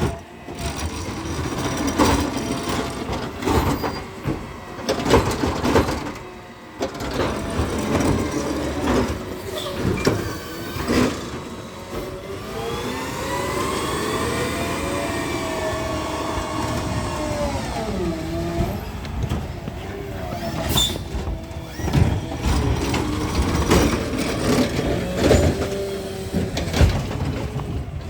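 Garbage truck at work: clanks and knocks, then about twelve seconds in its engine speeds up, holds for some six seconds and drops back, before more knocks follow.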